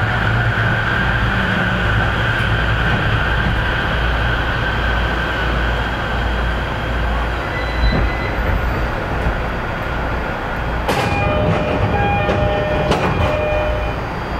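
Narita Line train running, heard from inside the carriage: a steady rolling rumble of wheels on rail with a high whine that slowly drops in pitch over the first few seconds. Near the end comes a run of short ringing tones and clicks.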